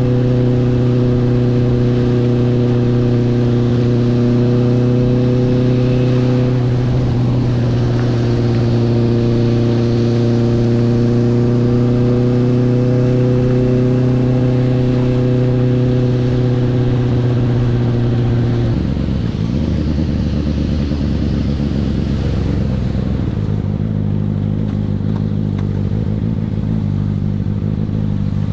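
Honda CB650R's inline-four engine running at steady revs through its stock exhaust with an opened-up valve, then dropping to lower revs about two-thirds of the way through.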